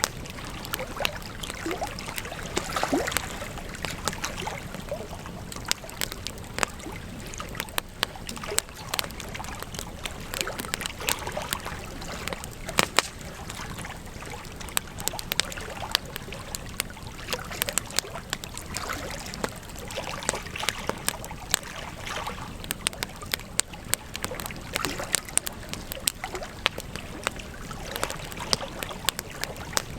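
Campfire crackling: frequent sharp pops and snaps of burning wood, irregular and varying in strength, over a steady hiss.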